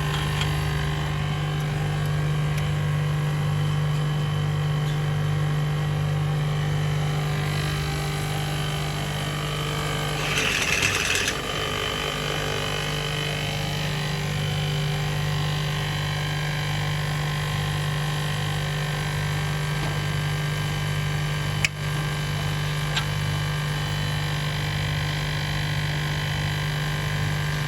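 Electric motor running with a steady hum and a slow, even pulse. About ten seconds in there is a brief louder hiss, and about twenty-two seconds in a single sharp click.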